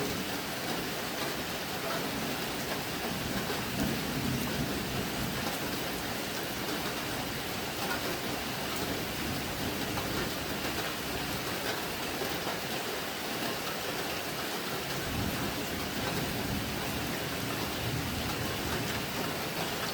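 Steady rain falling, with low rolls of thunder swelling about four seconds in and again from about fifteen seconds on.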